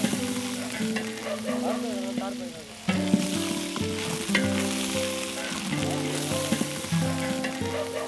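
Sliced onions and curry leaves sizzling as they fry in hot oil in a large aluminium pot, with a metal ladle stirring and scraping now and then against the pot. Background music with held notes plays underneath.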